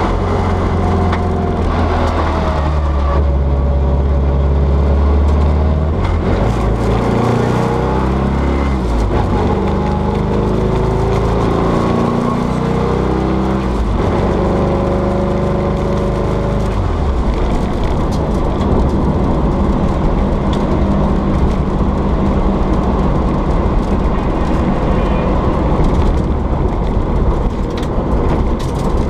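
Ford Sierra RS Cosworth's turbocharged 2.0-litre four-cylinder engine heard from inside the cabin at rally pace. The engine note rises and drops back several times as the car accelerates through the gears, then runs more evenly with heavy road noise.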